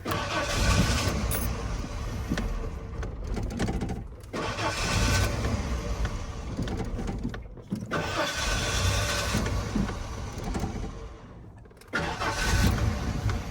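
1996 Ford F-150's 4.9-litre inline-six being cranked and started several times in a row, each attempt running a few seconds before dying, with short pauses in between. The engine will not stay running, a fault later traced to a bad fuel tank switch rather than the fuel pump.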